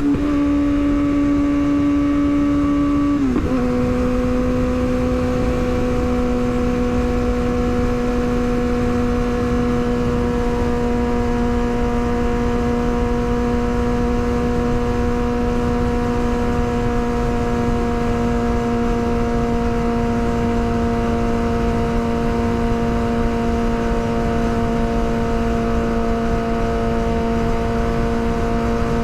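Yamaha R6 inline-four engine running at steady high revs while riding, with a high, even tone and wind noise. About three seconds in the pitch dips briefly and settles slightly lower, then holds steady.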